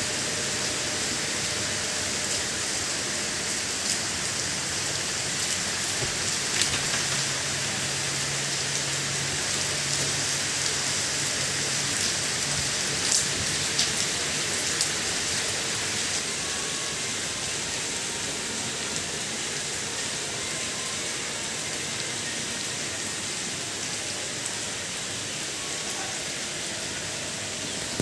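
Steady rain falling, an even hiss with a few sharper drop hits standing out now and then.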